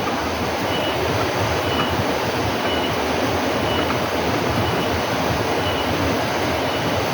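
A loud, steady rushing noise, with a faint short high tone repeating about once a second.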